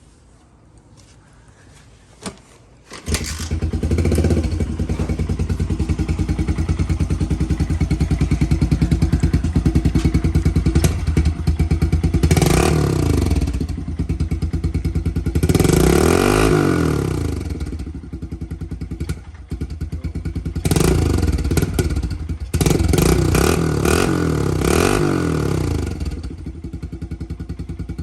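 2021 Kawasaki KLX110R pit bike's single-cylinder four-stroke engine through an aftermarket Yoshimura exhaust. It starts about three seconds in, runs at idle, and is blipped up and back down several times.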